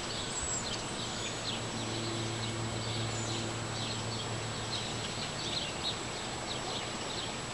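Outdoor ambience: small birds chirping over and over against a steady hiss, with a low hum coming in for a few seconds in the middle.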